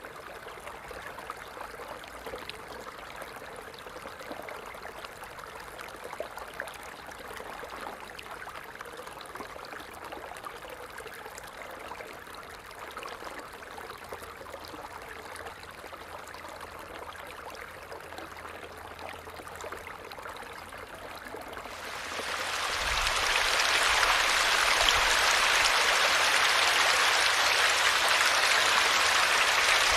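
Falling water: a light trickle of drips and small splashes. About two-thirds of the way through, within a couple of seconds, it swells into a much louder, steady rush of heavier falling water.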